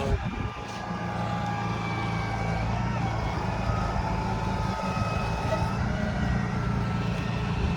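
Steady low vehicle rumble with faint high tones that drift slowly in pitch.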